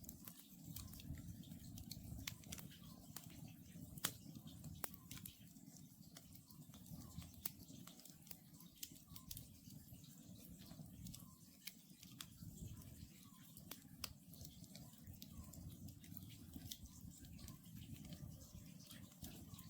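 Wood campfire crackling: irregular sharp pops and snaps from the burning logs, one louder pop about four seconds in, over a steady low rumble.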